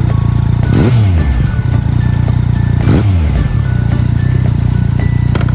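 Yamaha XSR900's inline-three engine running through an SP Tadao Power Box FULL SS aftermarket exhaust while riding at a steady pace. The pitch sweeps briefly up and down twice, about a second in and again about three seconds in.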